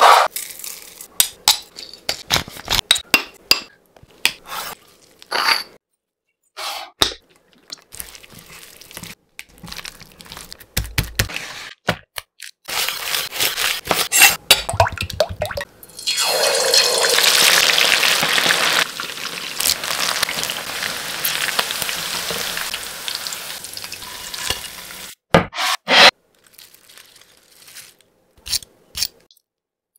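Kitchen sounds: sharp taps and clicks of jars and bowls set down, and a knife chopping green chillies on a wooden board. About half way through, a steady loud sizzle of chicken deep-frying in coconut oil starts, runs for about eight seconds and stops suddenly. A few scattered clicks follow.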